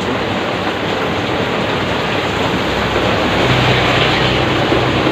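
Heavy rain pouring steadily. About three and a half seconds in, a motor vehicle's engine hum comes in and grows louder as it approaches over the rain.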